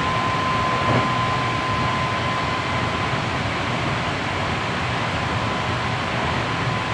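Interior running noise of a Hankyu 7300 series electric train under way: a steady wheel-on-rail rumble with a thin, steady high tone over it, and a brief knock about a second in.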